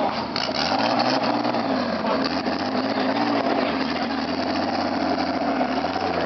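Turbocharged 2.5-litre straight-six of a BMW E30 drift car running at low revs as the car rolls slowly away, the engine note rising and falling gently with light throttle.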